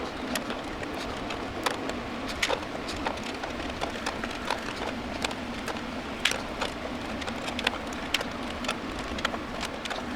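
Small metal clicks and taps, scattered irregularly, from a spanner working stuck nuts off a mixer's metal panel, over a steady background hiss.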